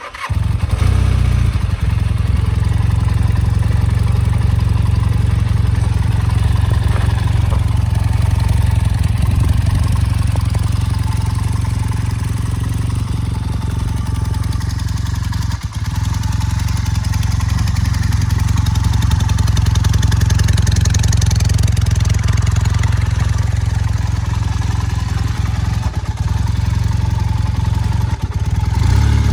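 1982 Honda CM450's parallel-twin engine running at a steady, even speed, with a brief dip about halfway through and another near the end.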